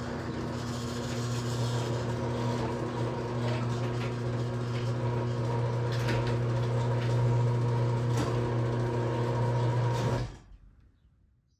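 Garage door opener motor running with a steady hum and light clicking from the drive mechanism, stopping abruptly about ten seconds in.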